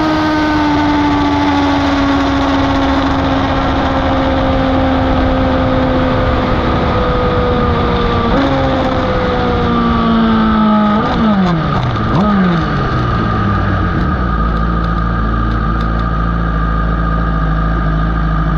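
Superbike engine heard onboard with wind noise, its revs slowly falling as the bike slows. There is a short rise in revs about 8 seconds in, then two quick drops in revs around 11 and 12 seconds in, after which it runs at a steady low speed.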